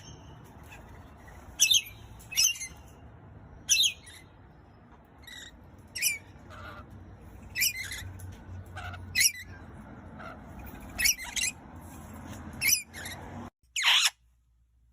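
A pet parrot giving short, sharp squawks and chirps, about one every second, over a faint low hum; near the end comes one louder call that falls in pitch.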